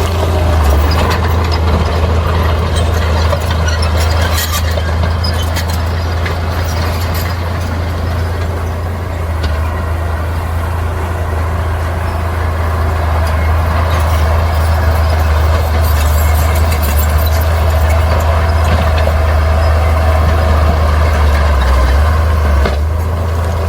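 Heavy diesel earthmoving machinery running steadily under load, with a deep, even engine drone and brief clatter now and then.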